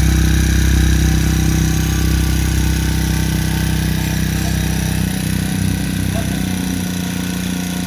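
Four-stroke engine running steadily at idle after repair, its low note easing a little about five seconds in.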